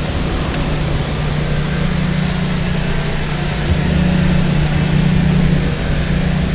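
Steady low engine drone with a constant hum that grows a little louder about halfway through.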